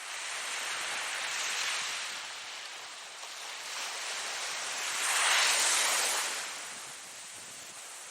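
Ocean surf: waves breaking and washing up, a hiss that swells as one wave breaks right at the start, and again louder about five seconds in, then draws back.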